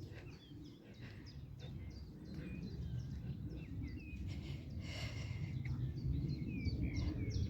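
Songbirds chirping and calling, many short high notes in quick succession, over a steady low rumble.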